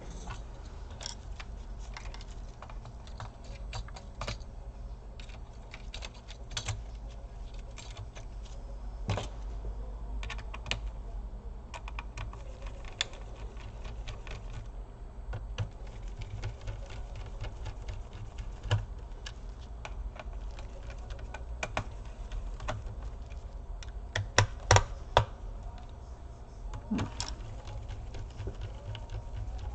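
Irregular light clicks and taps of small plastic and metal laptop parts being handled during reassembly, over a steady low hum, with a few louder knocks near the end.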